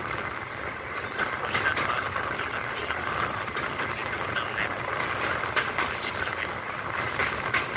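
Passenger train running, heard from a coach window while crossing a river bridge: a steady rushing rumble with irregular metallic clicks and clatter from the wheels on the rails.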